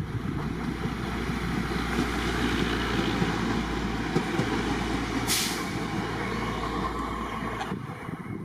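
Goods train passing close by, its wagons rumbling steadily on the rails, with a short sharp hiss about five seconds in. The rumble cuts off suddenly near the end.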